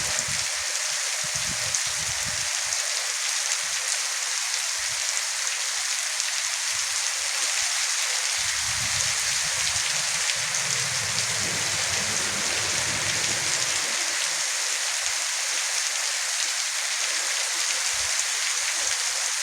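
Heavy monsoon rain falling steadily, an even hiss at constant level.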